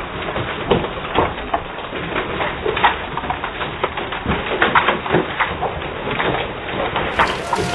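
Storm wind blowing hard with hail striking: a constant rush of noise with many irregular sharp knocks.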